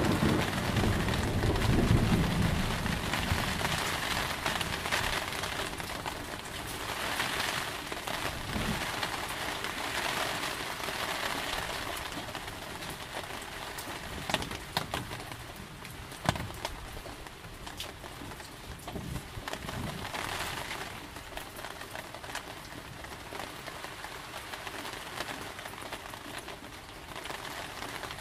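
Steady rain falling, with the last of a thunder rumble fading away over the first few seconds. A few louder, sharp drops tap nearby in the middle.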